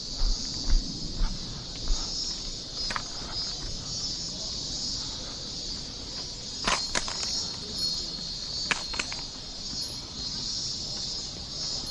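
Steady, high-pitched chorus of insects in summer woodland, with a few sharp clicks and the thud of footsteps on the trail.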